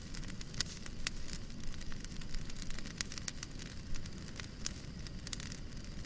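Fireplace fire crackling: irregular sharp pops and snaps over a low, steady rumble.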